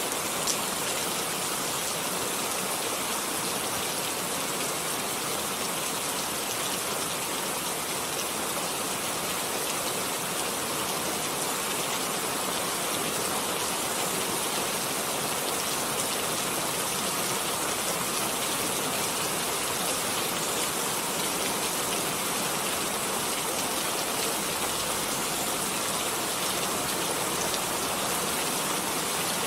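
Steady rain falling, an even hiss of drops with a few small ticks of individual drops, without let-up.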